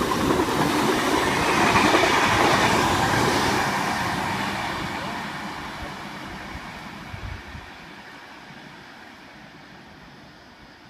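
Sydney Trains V-set double-deck intercity electric train passing through the platform, its wheel and rail noise loudest about two seconds in and then fading away steadily as it moves off.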